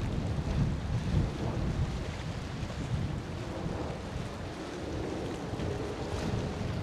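Low rumble of a Boeing 767-300F's jet engines as it comes in to land, mixed with wind buffeting the microphone. A faint steady whine joins the rumble about halfway through.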